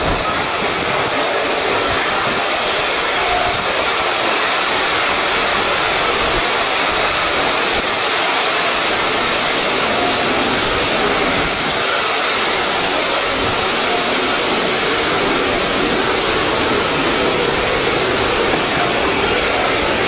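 Steam locomotive letting off steam: a loud, steady hiss that holds without a break or rhythm.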